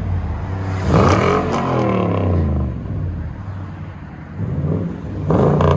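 Toyota Tundra 5.7L V8 with a true-dual exhaust through two Flowmaster Outlaw mufflers, revved. The pitch climbs sharply about a second in and falls back over the next second or so, settles to idle, then rises again near the end.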